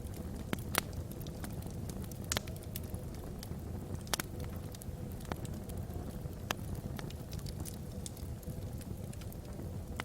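Wood logs burning in a fireplace: a steady low rumble of the fire with scattered crackles and several sharper pops a second or two apart.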